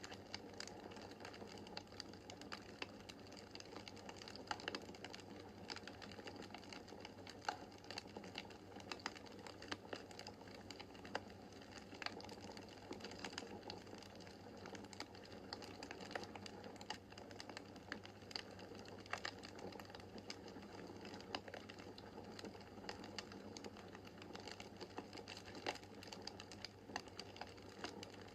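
Wood fire in a fireplace crackling steadily: dense small pops and snaps over a soft hiss of burning, with a few sharper cracks now and then.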